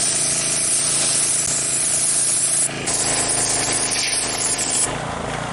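Gas pressure washer running, its small engine humming steadily under the loud hiss of the high-pressure water spray. The spray dips for a moment about halfway through and stops near the end while the engine keeps running.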